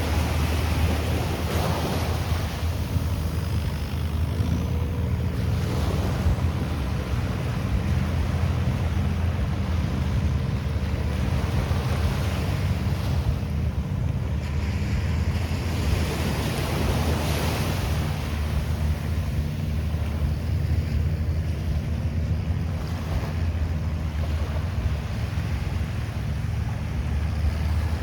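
Sea waves washing up on the beach in repeated surges every few seconds, with a steady low rumble of wind buffeting the microphone.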